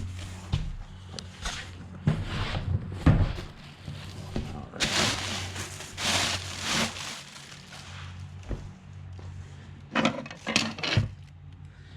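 Cardboard and packing material being handled and pulled away by hand: scattered knocks and rustles, with a longer rustling stretch about five to seven seconds in.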